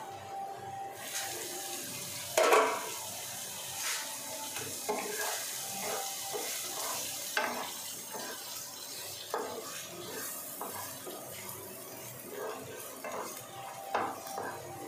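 Wooden spatula stirring and scraping a masala of onion paste, carrots and broccoli stalks frying in a pan, with a steady sizzle from about a second in and repeated light knocks of the spatula on the pan. One loud clatter about two and a half seconds in.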